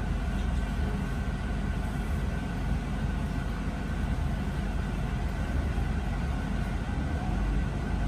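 Inside an RER A commuter train pulling slowly out of a station: a steady low rumble of the running train, with a faint steady high tone over it.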